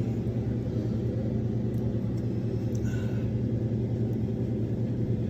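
RV air conditioner running with its fan blowing air, a steady low hum.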